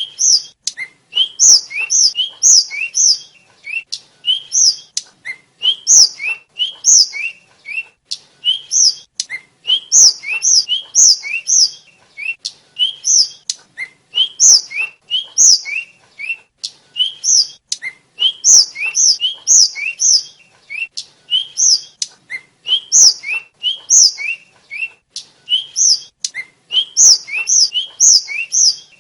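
Tledekan (sulingan) flycatcher singing: a busy, continuous run of short, high, mostly rising whistled notes in quick repeated phrases.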